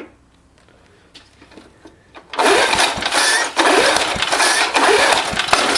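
Old 3.5 hp Briggs and Stratton single-cylinder mower engine being pull-started. It catches a little over two seconds in and runs loud and ragged, with a sharp pop near the end, which the owner takes for a backfire. He blames the rough running on a carburetor that needs work.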